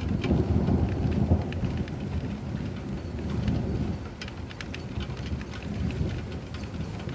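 Steady rain with distant thunder: a low rumble swells at the start and again midway, with scattered drops ticking on a surface.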